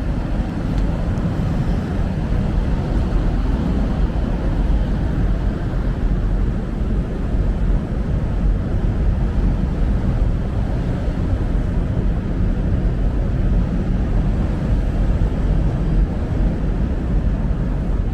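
Steady low rumble of downtown street traffic.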